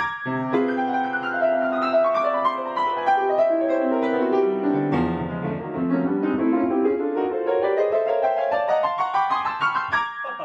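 Piano music: flowing runs of notes sweeping downward, a low bass note about halfway through, then runs climbing back up.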